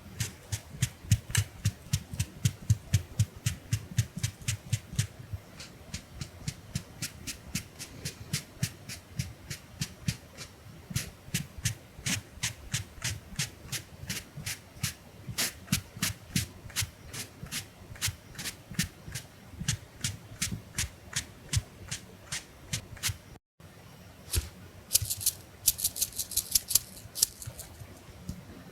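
A small makeup puff sponge dabbing quickly against the microphone, giving a run of soft, even taps about four a second. The tapping breaks off briefly about two-thirds through, and a short hissy rustle follows near the end.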